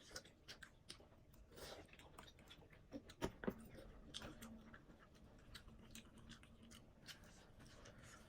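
Faint chewing and mouth sounds of a person eating noodles, with scattered small wet clicks and smacks that are a little louder about three seconds in.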